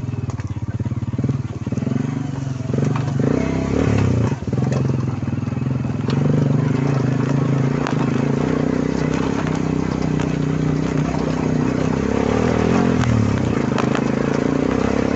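Quad bike (ATV) engine running under way, its pitch shifting with the throttle and a little louder from about six seconds in, with some clatter.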